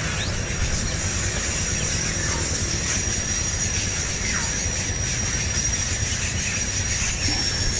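Outdoor ambience: a steady high-pitched whine with a low rumble beneath it, and a faint falling chirp about four seconds in.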